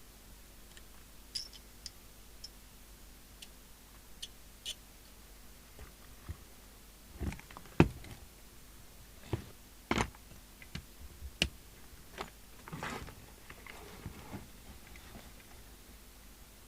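Scattered small clicks and knocks of tools and radio parts being handled on a workbench. The taps are sparse at first and come closer together and sharper from about seven seconds in.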